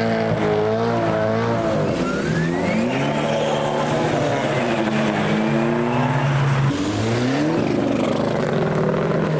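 Car engine accelerating hard through the gears. Its pitch climbs, drops and climbs again at upshifts about two seconds and about seven seconds in, with a faint rising whistle over the first upshift.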